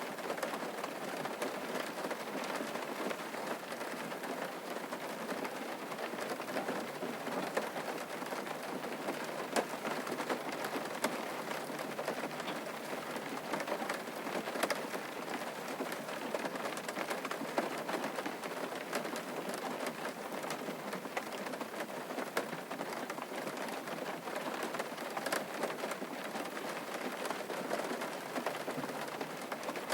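Steady rain falling on a surface, with scattered drop ticks throughout.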